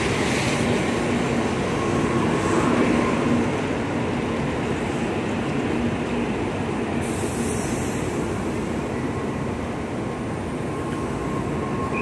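Tokaido Shinkansen train pulling in alongside the platform, a steady rumble with a faint whine. A higher hiss joins about seven seconds in.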